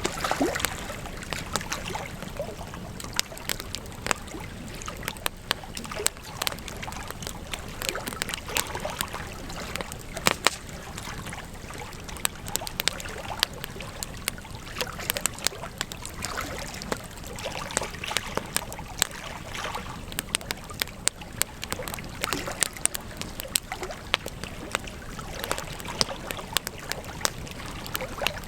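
Wood campfire crackling: irregular sharp pops and snaps, many per second, over a steady hiss of burning.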